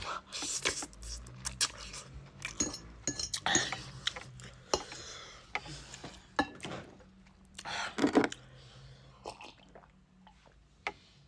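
Eating utensils clicking and scraping against a bowl of noodles in many short, irregular clinks, with chewing in between.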